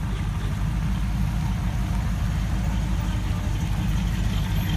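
Car engine running at low speed with a steady low rumble.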